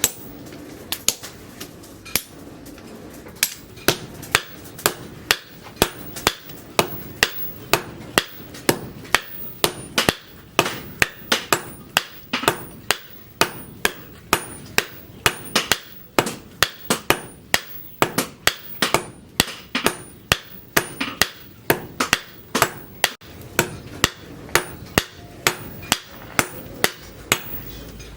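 Hand hammer striking steel rebar on an anvil as it is forged: a few blows about a second in, then steady, regular strikes at about two a second.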